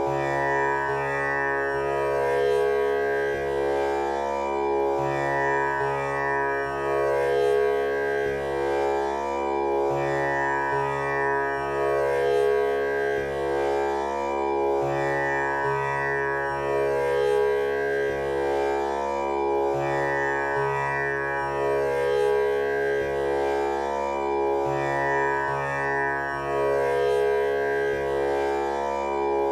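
Tanpura drone tuned to C#, its strings plucked in turn in a slow repeating cycle, about one pluck every second and a half, with the rich overtones ringing on steadily between plucks.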